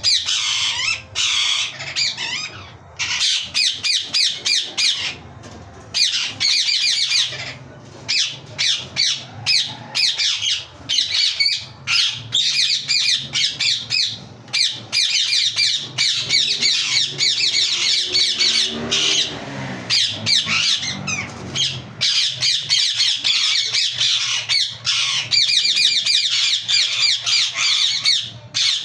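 Yellow ringneck parakeet screeching: loud, harsh squawks repeated in rapid runs with short pauses between them.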